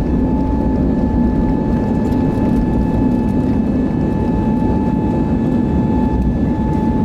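Airbus A320neo's jet engines and airflow heard from inside the passenger cabin: a loud, steady rumble with a constant high whine over it.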